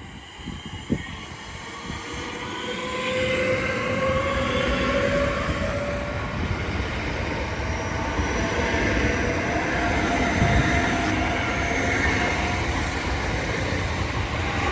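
Class 465 Networker electric multiple unit pulling out of the station. The rumble grows louder over the first few seconds and the traction motors' whine rises in pitch as it gathers speed.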